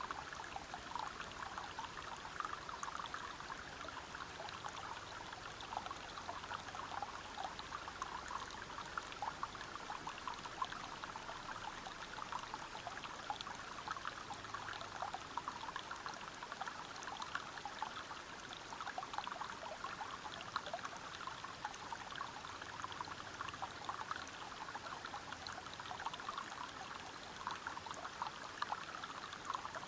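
Water streaming and splashing over rocks: a steady, even rush full of small splashes and trickles, with no let-up.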